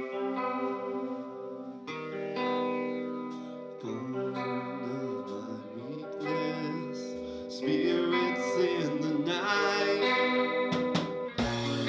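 Live band playing an instrumental intro led by guitar through a chorus effect, holding chords. Low bass notes come in about four seconds in, the sound gets louder and fuller about eight seconds in, and drum hits come in near the end.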